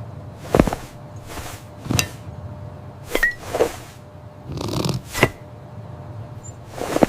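A string of short cartoon sound effects: about eight brief swishes and clicks, spaced irregularly, with no music under them.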